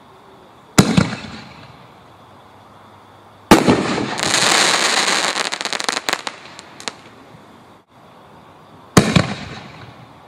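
Consumer canister artillery shells bursting: a loud bang about a second in, a second bang a few seconds in followed by a couple of seconds of dense crackling, and a third bang near the end, each trailing off in echo.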